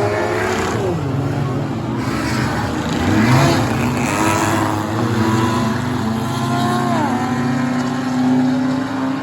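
Several enduro race cars' engines running on a short oval track, revving up and easing off. Each drops sharply in pitch as it passes, about a second in and again about seven seconds in.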